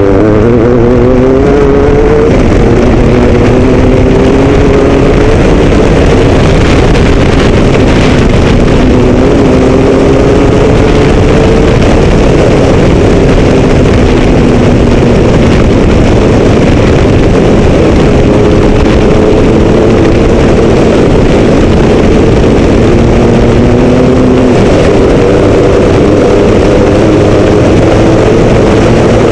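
Mitsubishi Pajero MPR13 rally-raid car's engine running hard at speed, its pitch climbing slowly with a few brief drops, over a constant loud rush of wind and tyre noise.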